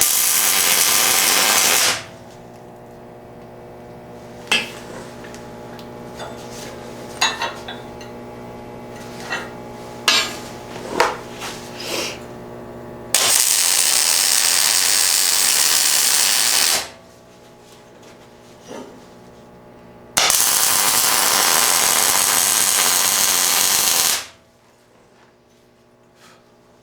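Arc welding: three tack welds, each a steady crackling hiss lasting two to four seconds that starts and stops abruptly, joining the steel parts of a winch snatch-block mount. Between the welds there is a steady machine hum and scattered metallic clicks and taps.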